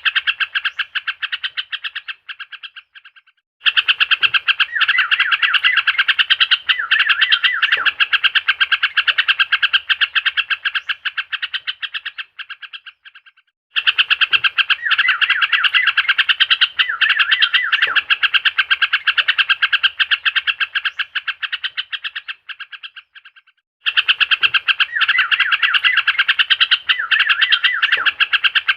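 Recorded lure call of a yellow-vented bulbul (trucukan): a fast, dense chattering run of chirps, looped so that it fades out and starts again about every ten seconds.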